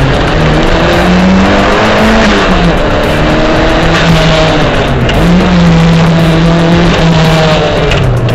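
Toyota SW20 MR2's engine at high revs on track, heard from inside the cabin: the pitch climbs, drops sharply about two and a half seconds in as it changes gear, holds steady, then rises and falls again near the end, over a steady roar of road and tyre noise.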